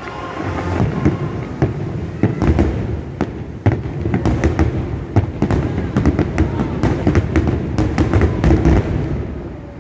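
Fireworks display: a rapid series of bangs and crackles over a continuous low rumble, thickening to a dense barrage in the second half before easing off at the end.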